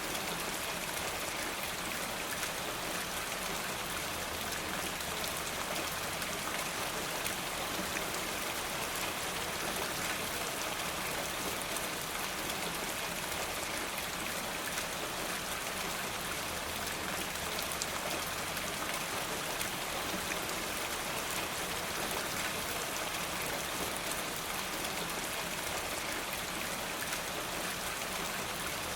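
Steady rain falling, with a dense patter of individual drops ticking throughout.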